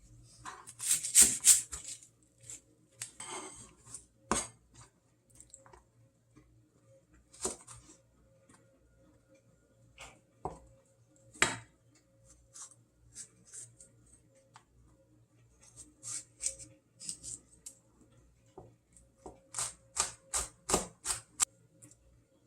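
Kitchen preparation noises: a series of sharp clicks and snips, the loudest near the start, with quick runs of about three a second near the end. A faint steady hum lies underneath.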